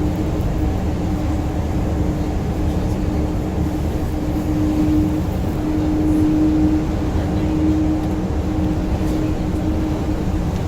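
Steady engine and road noise of a moving tour bus heard from inside, a low continuous rumble with a steady hum that swells slightly about halfway through.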